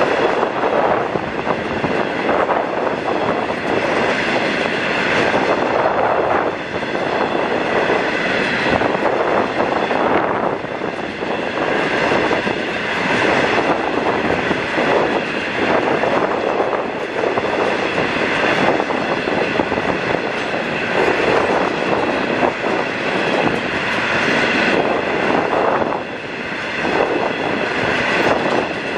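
A long coal train's hopper cars rolling past on steel rails. The wheels rumble and clatter steadily, and a high metallic squeal from the wheels rises and fades again and again.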